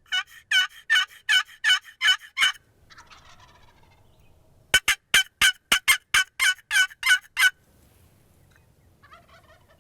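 Wild turkey calling: two quick runs of about ten loud yelps, about four a second, with a fainter tom's gobble answering between them and again near the end.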